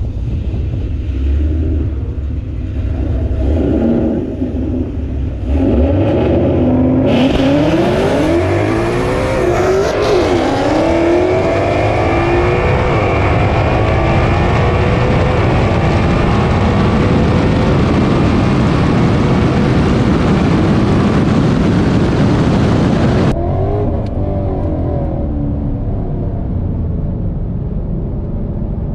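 Ford Mustang GT's 5.0 V8 with full exhaust making a drag-strip launch. Near the start of the run the revs jump and tangle as the tires hop and the throttle is lifted and reapplied, then climb in repeated rising sweeps as the 10-speed automatic upshifts. About 23 seconds in the power cuts off sharply and the engine drops to a low coast.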